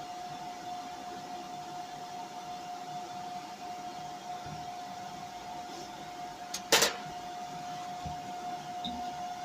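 A steady whine runs under everything. About two-thirds of the way through, a MIG welder strikes one short tack weld on steel body panel, a brief loud burst of noise that stops sharply. A few faint knocks follow.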